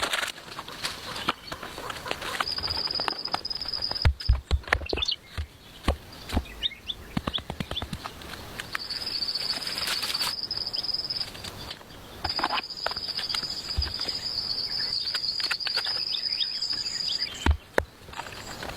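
An insect trilling in three long stretches at a steady high pitch, with scattered clicks and knocks throughout and a few dull thumps in the first third.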